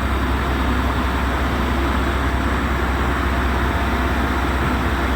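Steady low drone of a ship's engine machinery running, with an even hiss over it.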